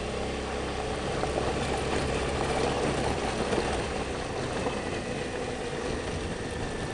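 Motorcycle engine running steadily under riding noise, a dense even rush.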